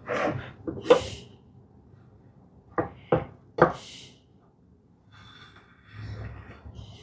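Several sharp knocks and clacks of tools and wood being handled and set down on a workbench, the loudest about a second in and again just before four seconds, with quieter handling noise after.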